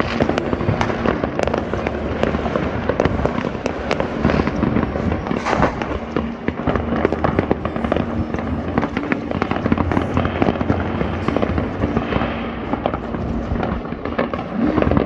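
New Year fireworks going off across the city at once: a dense, unbroken crackle of many overlapping bangs.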